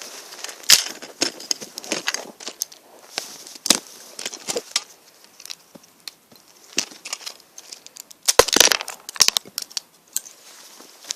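Plastic Lego pieces clicking and clattering as they are handled, with a dense flurry of rattling about eight seconds in.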